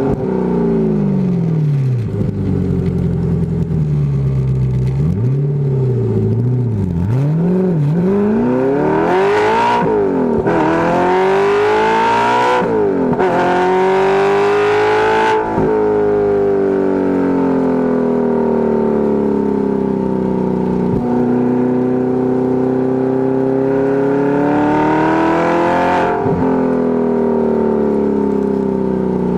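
Audi R8's 4.2-litre V8 through a Fast Intentions exhaust, the car being driven with a manual gearbox: the engine revs up hard in rising sweeps, each broken by a short gap at a gear change about ten and thirteen seconds in and again near the end, with slower stretches where the revs fall away and climb again.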